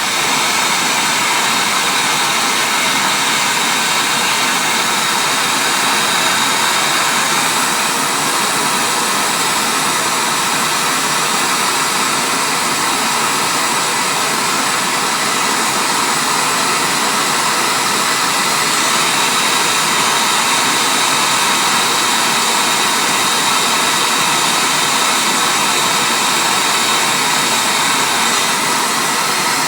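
A loud, steady rushing, hissing noise, like air being blown, that starts suddenly just before and holds unchanged throughout.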